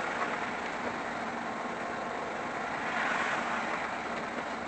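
Steady engine and road noise of a car on the move, recorded by a dashcam.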